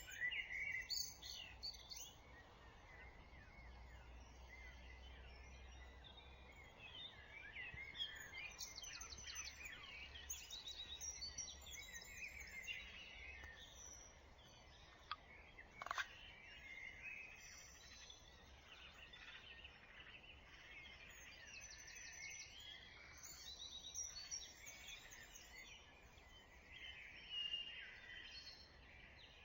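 Faint spring dawn chorus of several songbirds singing at once: overlapping warbles, whistles and rapid trills, with a low background rumble. There is a single sharp click about sixteen seconds in.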